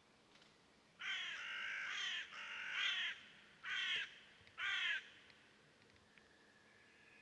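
A bird calling four times: two longer calls about a second in, then two short ones about a second apart.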